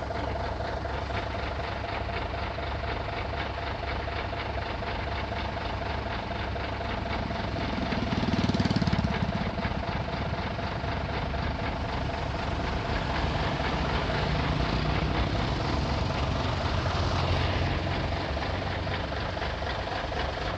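A truck engine running at idle, with a steady drone that swells louder briefly about eight seconds in and again for several seconds later on.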